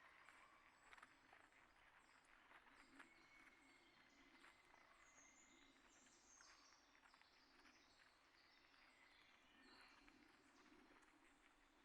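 Faint outdoor birdsong: many short high chirps and calls from small birds, with scattered small clicks.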